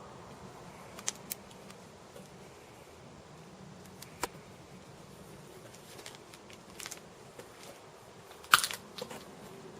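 Scattered light clicks and knocks of handling over a low steady hiss, with the loudest cluster of clacks near the end.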